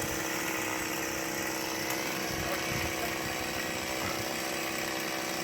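An engine running at a steady speed, a constant drone with no change in pitch or level.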